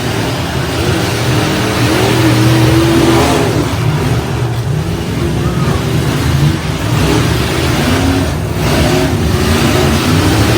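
Demolition-derby truck engines revving, their pitch rising and falling over one another.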